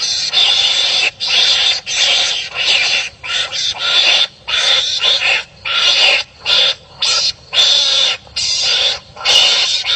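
Harsh calls of animals fighting, one after another with brief gaps about once a second.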